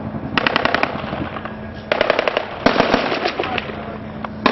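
Automatic gunfire in three rapid bursts of several shots each, with another burst starting at the very end.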